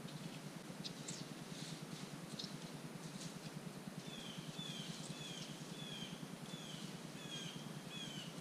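A songbird calling: a few brief high chips, then from about halfway a series of short downslurred whistled notes repeated about twice a second.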